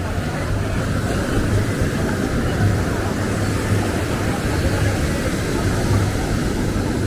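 Busy street ambience: a steady low rumble of road traffic with people's voices mixed in.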